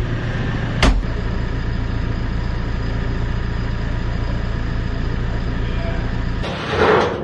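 A machine's engine running steadily at a low hum, with one sharp click about a second in. The engine cuts off about six and a half seconds in, and a short louder noise follows near the end.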